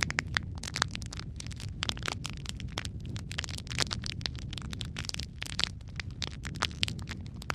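Wood fire crackling in a fireplace: many irregular sharp pops and snaps over a steady low rumble of the burning logs.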